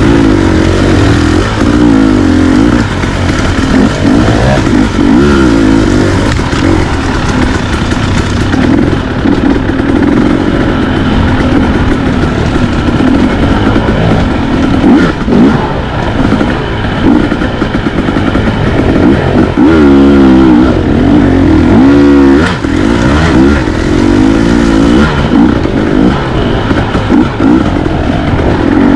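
Dirt bike engine running hard under way, its pitch rising and falling again and again as the throttle is opened and rolled off.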